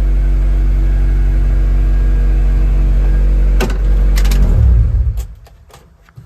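Acura RSX four-cylinder engine running steadily on its first start after being reinstalled in the car, sounding decent. There are a few sharp clicks about three and a half seconds in, then the engine shuts off about five seconds in.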